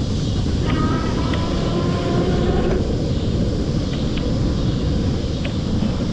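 Wind rushing over an action camera's microphone while riding an e-bike, a steady low rumble with a few light clicks.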